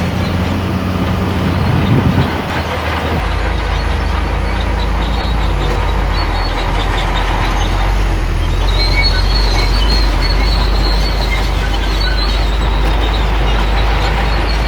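Shantui bulldozer's diesel engine running under load, with its steel tracks clanking and giving high squeals.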